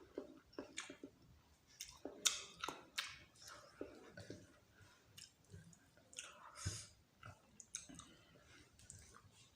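A person chewing dal bhat with meat, with irregular wet smacks and clicks of the mouth. The sharpest click comes about two seconds in.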